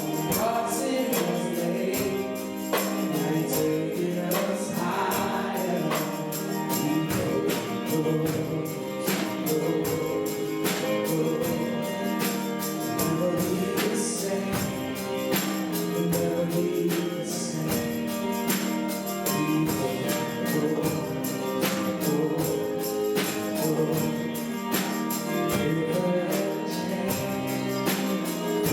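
Gospel worship music with a steady beat, voices singing along with the band.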